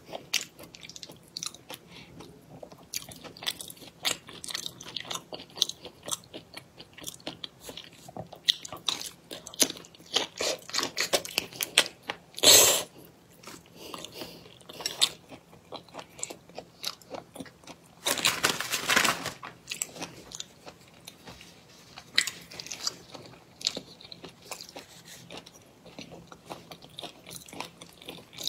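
Close-miked eating of a whole fish in spicy sauce: crunching and chewing with many wet mouth clicks and smacks. A loud sharp crunch comes about twelve seconds in, and a longer noisy stretch of over a second comes about eighteen seconds in.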